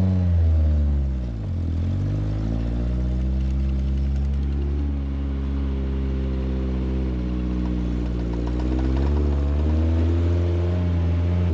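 Suzuki Samurai engine running while the truck drives in four-wheel-drive high range. The revs drop in the first second or so, hold steady, then climb again near the end.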